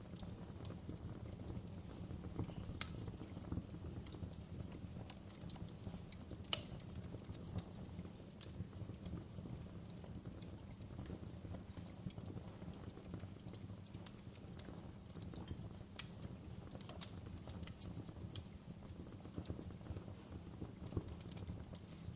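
Wood fire crackling: irregular sharp snaps and pops, a few louder ones scattered through, over a steady low rumble of the flames.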